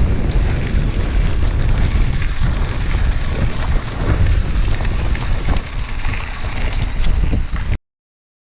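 Heavy wind buffeting the microphone of a camera riding on a moving bicycle, with rattles and clicks over a low rumble. The sound cuts off abruptly near the end.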